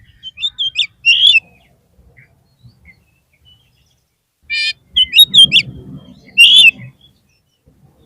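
Oriental magpie-robin singing in two bursts of short, quick whistled chirps. The first comes about half a second in; the second follows a pause of about three seconds and opens with a harsh buzzy note. A low rumbling noise sits under the second burst.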